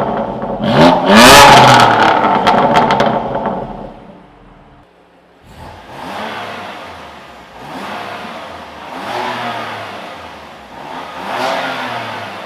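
Twin-turbo straight-six of a decatted BMW M2 Competition on a Rogue downpipe, revved hard with crackles from the exhaust in the first few seconds. It then dies away, and four lighter blips follow, each rising and falling in pitch.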